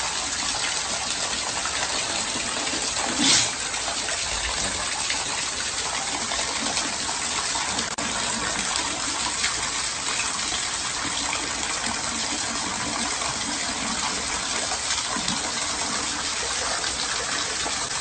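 Floodwater rushing steadily, an even, continuous gush of water, with one brief louder burst about three seconds in.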